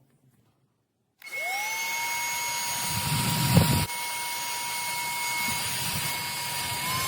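Trucozie cordless stick vacuum's motor switching on about a second in, spinning up with a rising whine and then running steadily. There is a brief louder rush about halfway, and near the end the whine steps up slightly in pitch.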